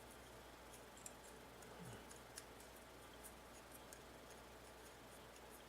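Near silence: room tone with a low steady hum and a few faint light ticks.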